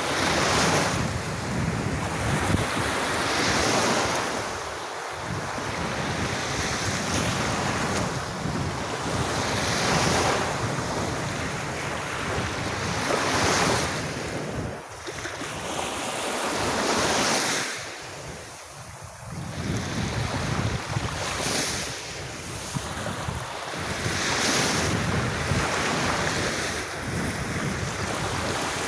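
Sea waves washing onto a beach, swelling and falling back every few seconds, with wind rumbling on the microphone.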